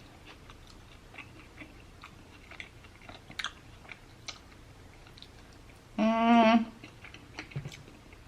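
Mouth sounds of a person chewing food, a scatter of soft clicks and smacks, with one short pitched vocal sound from the eater about six seconds in.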